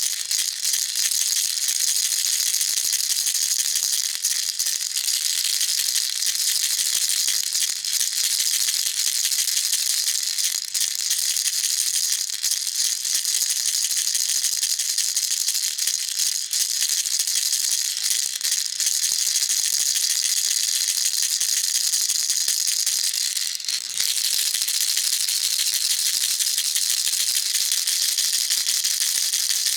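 Baby rattle shaken continuously and fast, a dense steady rattle of small beads, with a brief break about three-quarters of the way through.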